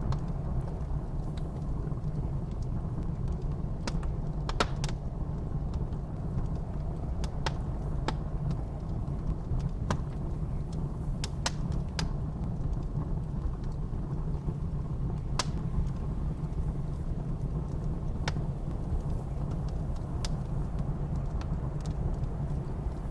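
Wood fire crackling in a fireplace, with about a dozen sharp pops at irregular intervals, over a steady low rumble of blizzard wind.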